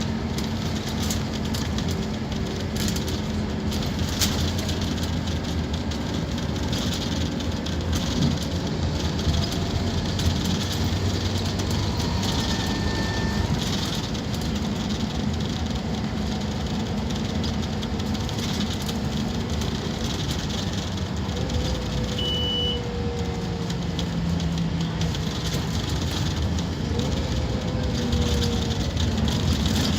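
Scania K230UB Omnilink bus's diesel engine running under way, steady throughout, with the engine note shifting in pitch a few times as it pulls and changes gear.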